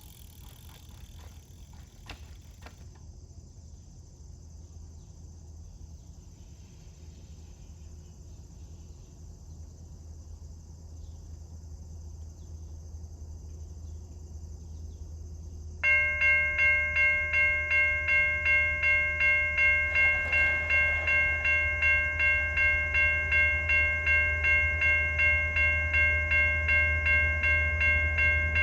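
Railroad crossing warning bell starts ringing about halfway through, struck about twice a second with a steady ringing tone, the signal that a train is approaching the crossing. Under it a low rumble slowly grows louder.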